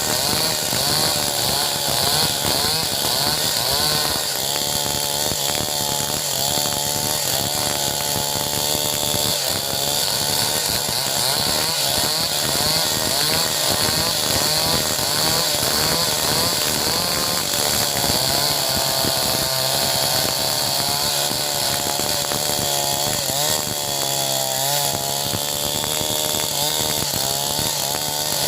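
Two-stroke chainsaw running at high revs, cutting through timber to saw out battens. Its engine note keeps wavering up and down as the chain works through the wood.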